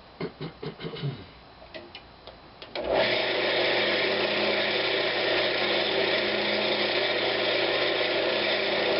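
A few light clicks, then about three seconds in a wood lathe is switched on and its motor runs up to a steady hum with an even whirring hiss, spinning a pine knob blank.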